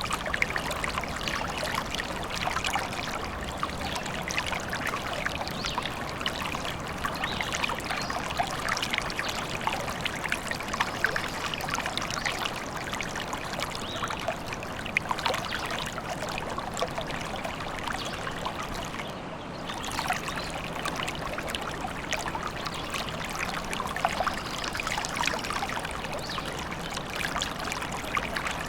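A small stream babbling and trickling steadily, with dense splashing and gurgling of water over stones.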